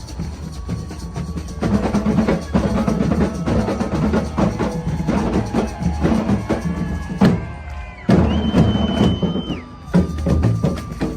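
Batucada drum ensemble playing a steady samba rhythm on deep bass drums and other percussion. About eight seconds in, the drumming drops back briefly under a long, high whistle note.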